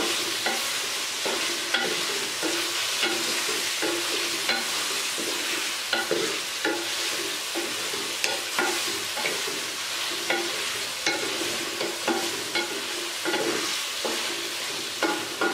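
Chicken pieces frying and sizzling in oil in a metal karahi as they are browned, while a wooden spatula stirs and scrapes the pan, knocking against the metal about once or twice a second.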